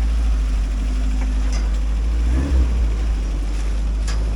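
Off-road 4x4's engine running steadily at low revs, with a single short click near the end.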